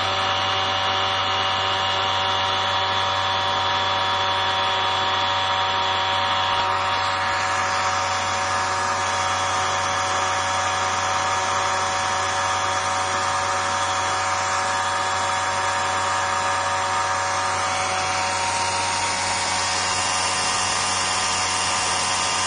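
A Bosch 120 A car alternator rewired as a brushless motor runs steadily under an RC brushless speed controller, giving a constant whining hum of several steady tones over a whirring noise.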